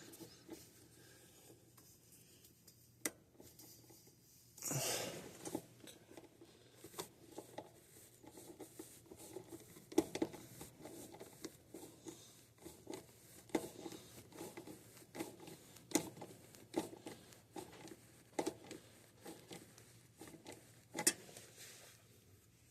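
Faint hand-working noises of stiff electrical wires and metal parts: scattered small clicks and rustles, with a brief louder scrape about five seconds in.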